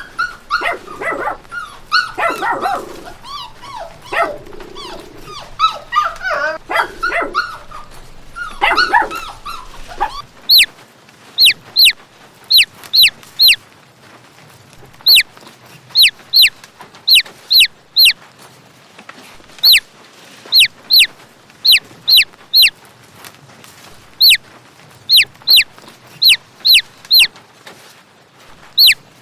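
A dog yelping and whining for about ten seconds, in varied calls that bend up and down in pitch. Then a long string of short, high peeps, each falling sharply in pitch, coming in groups of two or three.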